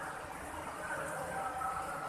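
Steady rain, an even hiss, with faint short tones now and then in the background.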